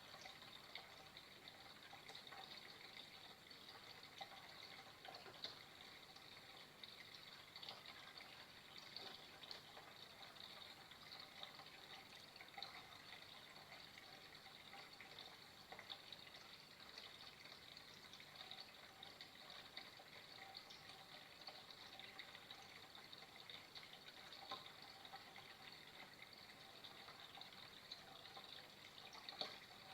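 Faint, steady trickle of flowing water, with small scattered splashes.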